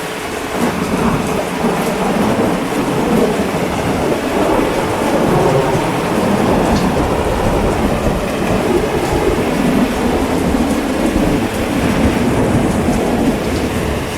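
Heavy rain falling steadily, with a long rolling rumble of thunder that swells about half a second in and eases off near the end.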